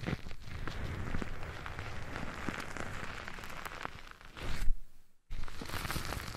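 Close-up ASMR crackling and rustling right against the microphone, a dense stream of small clicks and scratches. It cuts out to silence for a moment about five seconds in, then resumes.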